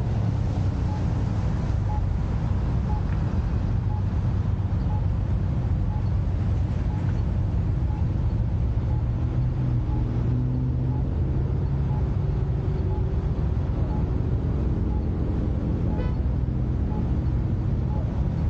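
Car engines idling and creeping in traffic at close range: a steady low rumble with road noise, and a faint regular ticking over it.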